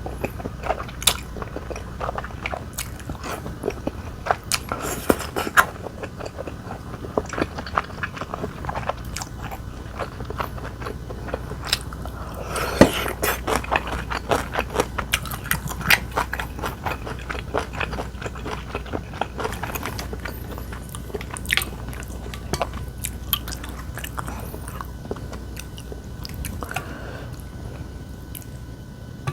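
A person eating close to the microphone: steady biting and chewing with many sharp crunches and mouth clicks, busiest around the middle.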